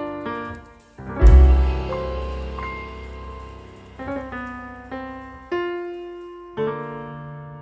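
Slow, gentle piano music: single notes and chords struck about once a second, each fading away, with a loud, deep bass chord about a second in after a brief lull.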